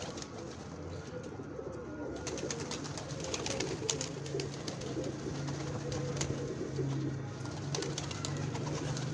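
Pigeons or doves in a loft cooing, a low humming coo that sets in a few seconds in and carries on, with scattered sharp clicks over it.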